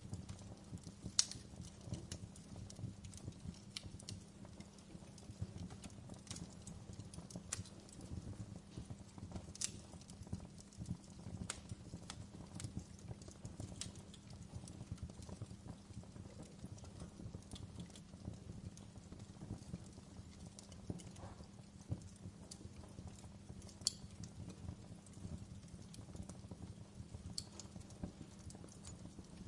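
Wood fire in a fireplace crackling, with a steady low rumble underneath and sharp pops at irregular intervals a few seconds apart.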